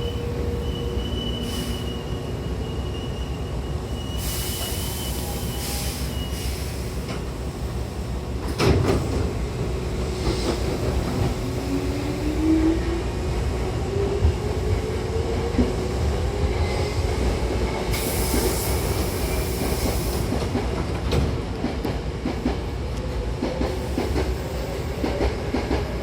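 Hankyu Kobe Line train: its doors bang shut once about nine seconds in, then the motors whine rising in pitch as it pulls away, over the steady rumble of the wheels on the rails.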